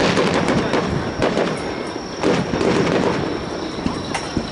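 Fireworks bursting in rapid succession: a dense run of crackling pops and booms, with louder bursts about a second and two seconds in.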